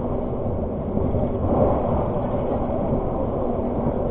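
Argo Parahyangan passenger train running along the track: a steady rumble of wheels on rails with a low steady hum.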